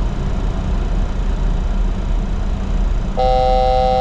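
Steady cockpit noise of a Bombardier Challenger 604 in flight. About three seconds in, a loud, steady alert tone of several pitches sounds together and holds past the end. It is the altitude alerter, warning 1,000 ft to go before the selected altitude.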